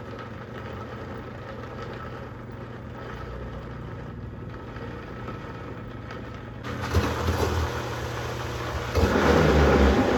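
Oster 1400-watt blender's motor running with a steady hum, growing louder in two steps, about 7 seconds in and again about 9 seconds in.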